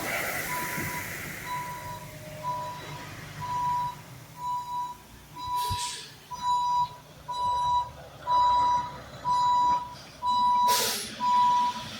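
Heavy truck's backup alarm beeping steadily, about three beeps every two seconds, getting louder in the second half. Two short hisses cut in partway through and near the end.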